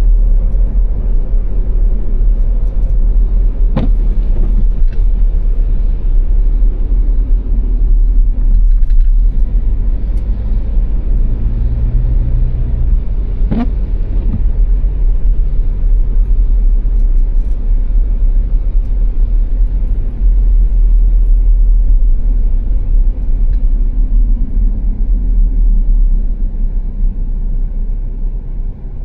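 Car driving at motorway speed: a steady low rumble of road and engine noise, with two brief knocks about 4 and 14 seconds in.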